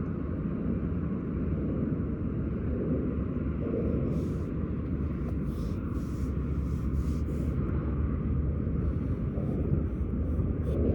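Steady low outdoor rumble, typical of wind on the microphone and distant traffic, with a few faint soft rustles in the middle.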